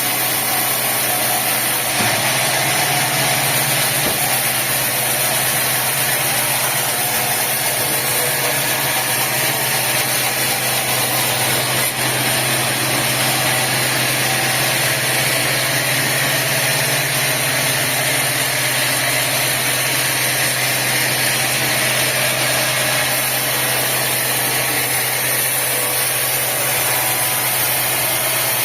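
Sawmill machinery running steadily: a continuous mechanical drone with a low hum and a wide hiss above it, unchanging throughout.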